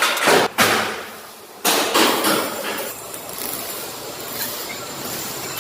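MIG welder arc crackling in short bursts of a second or so, then a longer, steadier run.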